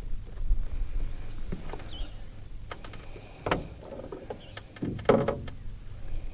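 Scattered knocks and clicks of handling gear in a small fishing boat while a hooked fish is brought in, over a low steady rumble; the two loudest knocks come about three and a half and five seconds in.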